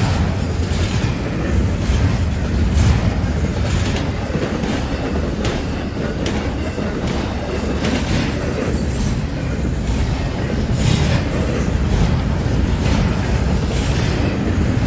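A train rolling past, its cars rumbling steadily with irregular clicks and clatter from the wheels over the track.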